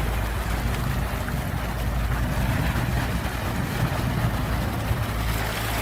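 Steady rush of the sea with a low steady hum underneath.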